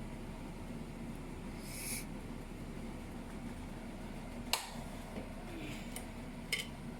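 Steady low room hum, with a short hiss about two seconds in and a few sharp clicks in the second half.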